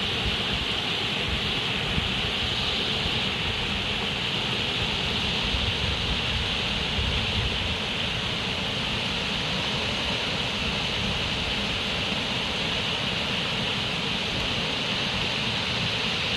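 Steady rushing of running water, an even hiss with a low rumble underneath and no breaks.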